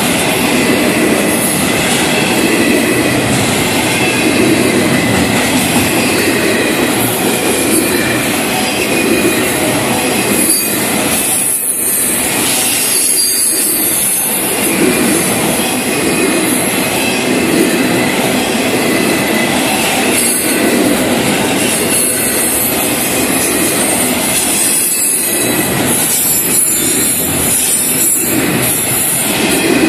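Florida East Coast Railway freight cars rolling past at slow speed: a steady rumble of steel wheels on rail, with a high squeal from the wheels.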